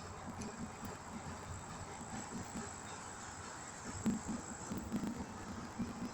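Insects, crickets by their sound, trilling steadily in one continuous high-pitched tone.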